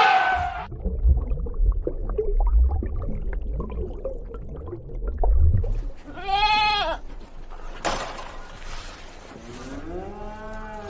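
A sheep-like bleat, one arching call about six seconds in, over low rumbling noise. A lower drawn-out animal call follows near the end.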